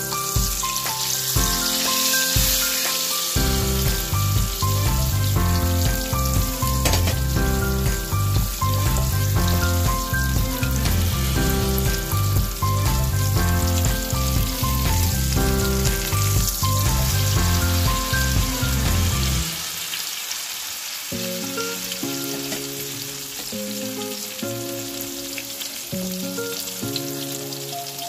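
Eggplant omelets sizzling as they fry in bubbling oil in a pan, a steady hiss, under background music. The music's heavy bass line drops out about two-thirds of the way through, leaving a lighter tune.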